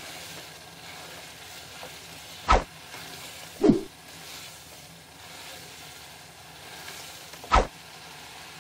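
Chicken pieces sizzling steadily as they fry in oil and tomato-spice masala in a pot, stirred with a spatula. Three sharp knocks of the spatula against the pot, about two and a half, three and a half and seven and a half seconds in, are the loudest sounds.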